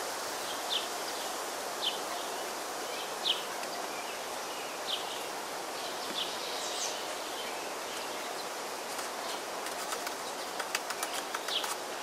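Outdoor ambience with a steady hiss and a small bird giving short high chirps about once every second or so. Near the end comes a quick run of light clicks and taps.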